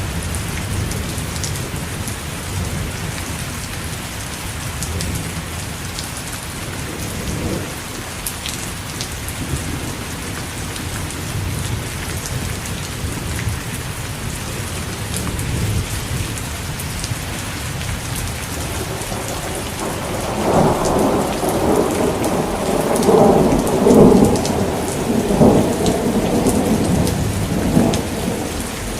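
Steady rain falling, with fine drop ticks throughout. About twenty seconds in, a roll of thunder swells and rumbles for several seconds before fading.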